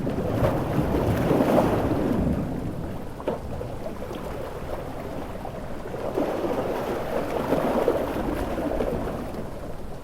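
Large ocean waves surging and breaking in two swells, one at the start and another about six seconds in, over a steady hiss of heavy rain.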